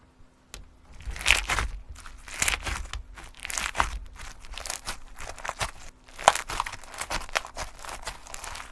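Irregular crinkling and rustling in bursts, with sharper crackles, as of something crumpled or handled.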